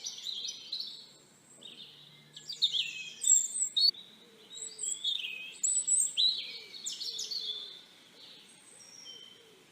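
Small songbirds chirping and twittering in quick, irregular, overlapping calls, busiest in the middle and thinning out near the end.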